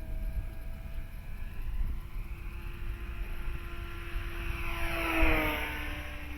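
Electric motor and propeller of a Dynam Super Cub RC airplane in flight, a steady whine. About five seconds in it passes close, growing louder and then dropping in pitch as it goes by. Wind rumble on the microphone underneath.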